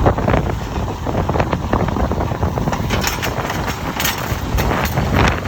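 Gusty wind buffeting the microphone, with a Mack garbage truck's diesel engine running underneath.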